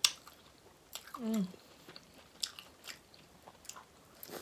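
Close-up wet chewing and lip-smacking of someone eating buttery seafood-boil food, opening with a sharp click and with a short falling "mm" hum about a second in.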